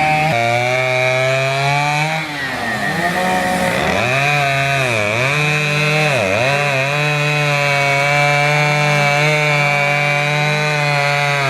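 Chainsaw running at high speed, its pitch dropping sharply several times as it bogs down cutting into wood, then holding steady.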